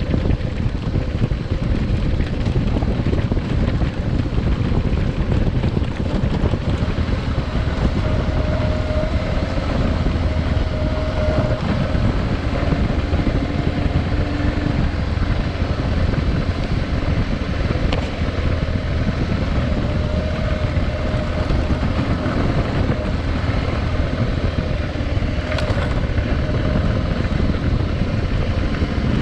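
Adventure motorcycle under way: the engine runs steadily under heavy wind rush on the microphone, its pitch drifting up and down a little with the throttle.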